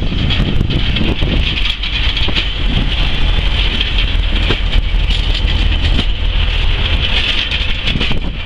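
Northern Rail Class 142 Pacer diesel railbus passing close along the platform: a heavy low rumble with a steady high-pitched squeal above it and many short clicks.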